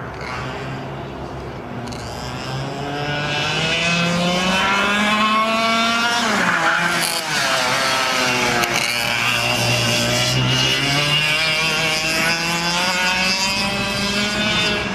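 Easykart 125 kart engine running hard: its pitch climbs for several seconds, drops sharply about six and a half seconds in, then climbs again and holds high with small rises and falls.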